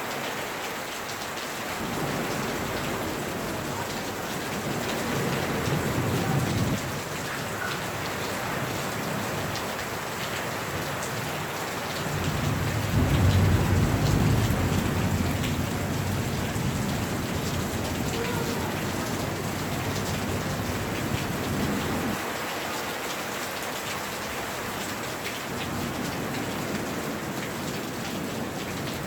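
Steady rain falling, with a low rumble that swells and fades twice, the louder one a little before halfway through.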